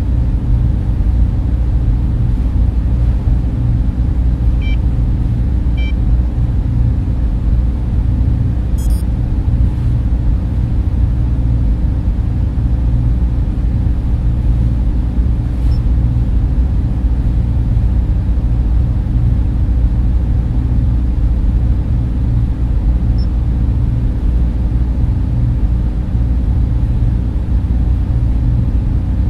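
Data center server room ambience: a steady, deep hum and whir of server cooling fans and air handling, with two faint short beeps about five and six seconds in.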